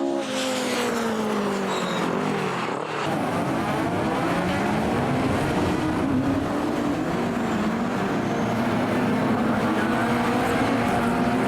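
Classic saloon racing cars going by at speed: one car's engine note falls in pitch as it passes in the first few seconds, then several cars' engines overlap, their pitch rising and falling.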